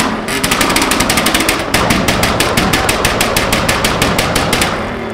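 Mini stunt car's engine held on its rev limiter, the ignition cutting in and out in a rapid even stutter of about ten pops a second. It stops shortly before the end.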